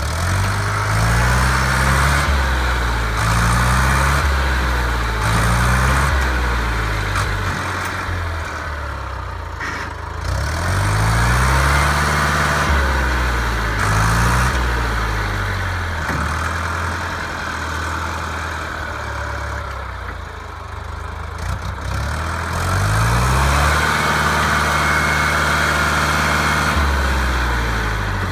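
Lamborghini 684 DT tractor's engine revving up and down repeatedly, then held at high revs for several seconds near the end, as the tractor strains to pull a tree out.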